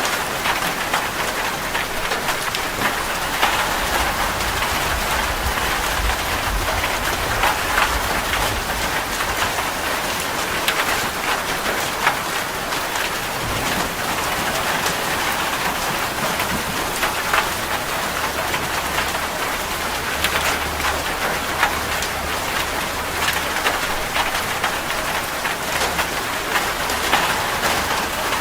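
Steady rain falling, with many individual drops pattering sharply on a surface. A low rumble comes and goes underneath.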